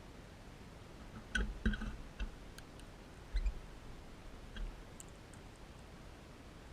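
Crimson rosella feeding: short crunchy clicks from its beak, a cluster about one and a half seconds in, then a few scattered ones.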